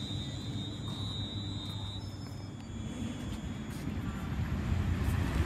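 Passenger train running along the platform, a steady low rumble with a thin high steady tone that stops about two seconds in; the rumble grows louder near the end.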